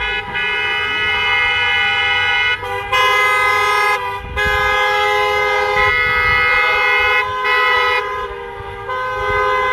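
Several car horns honking together in long held blasts, several pitches overlapping, broken by short gaps.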